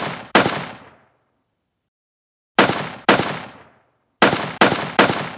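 Gunshot sound effects, sharp shots with short decaying tails, each dropping to dead silence: one near the start, two a half-second apart about two and a half seconds in, then three in quick succession near the end. The shots sound alike, the same effect reused.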